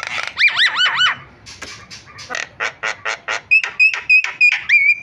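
Javan myna singing a varied song. It opens with four quick rising-and-falling whistles, then gives a rapid run of short harsh notes, and near the end a string of short clear whistles.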